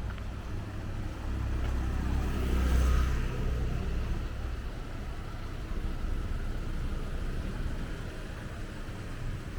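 Street traffic on a wet road, with one vehicle passing close about three seconds in: a swelling engine rumble and tyre hiss that then fades back into the steady traffic.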